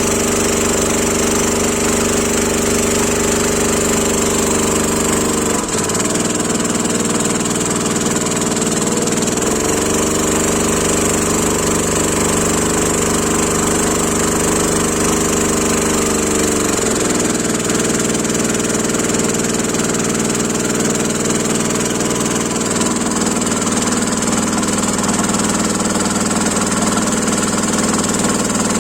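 Small engine on a farm watering boat, the kind that drives the spray pump, running steadily. Its pitch drops about six seconds in, climbs back a few seconds later, then drops again about two-thirds of the way through and stays lower.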